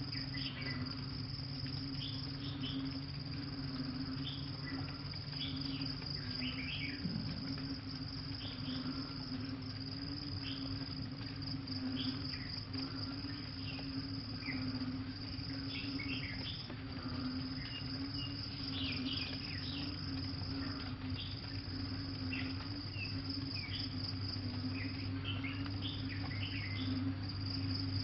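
Crickets trilling steadily on one high pitch, with a steady lower drone beneath and many short scattered chirps.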